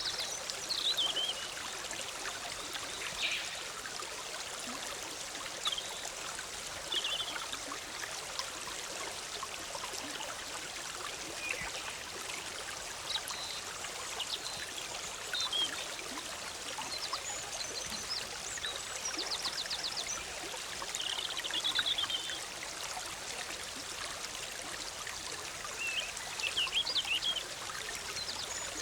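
Forest stream bubbling and splashing steadily over rocks, with songbirds giving short high chirps and brief trills now and then.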